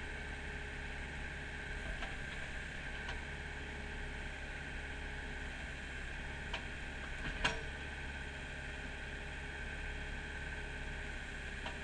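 Kubota mini excavator's diesel engine running steadily, with a few light clicks and knocks from the machine, the sharpest about halfway through.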